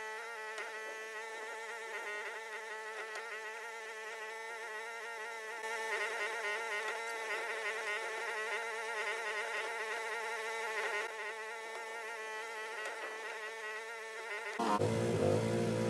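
Mini excavator's engine and hydraulics running under work, heard as a steady, thin buzzing hum with no low end, swelling and easing as the machine works. Near the end it switches abruptly to a louder, fuller and deeper sound.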